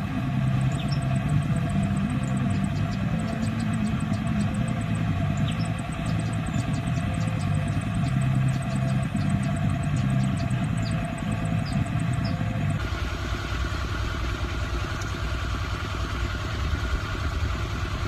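A vehicle engine running steadily with a low rumble. About thirteen seconds in the sound changes abruptly to less rumble and more hiss.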